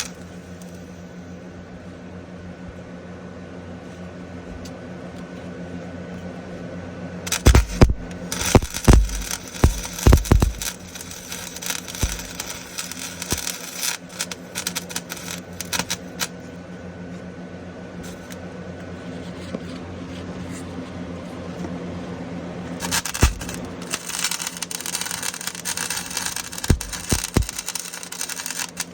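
MIG welder arc crackling in two spells of short welds on a Jeep Grand Cherokee's exhaust, patching leaks, with a long pause between. A steady hum runs underneath.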